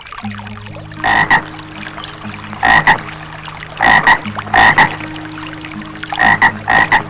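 A frog croaking in short double calls, about five bursts spaced roughly a second apart. Sustained low background music notes run underneath.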